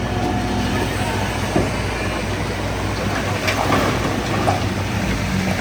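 Bulldozer's diesel engine running steadily, with clanking of its steel tracks and a few sharper metal knocks about halfway through.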